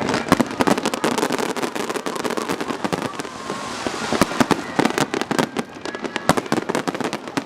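Aerial fireworks going off: a dense, rapid run of crackling pops and sharper bangs, easing slightly about halfway through before louder single cracks return.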